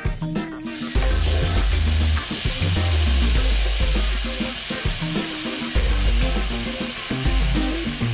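Chopped garlic and sliced shiitake mushrooms sizzling steadily in hot olive oil in a frying pan as they are stirred with a spatula. The sizzle starts about a second in, under background music with a bass line.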